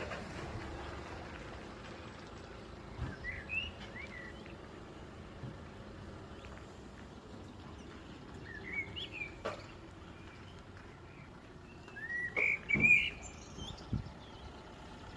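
Eurasian blackbird singing: three short warbled phrases several seconds apart, the last one the loudest, over a steady low background rumble.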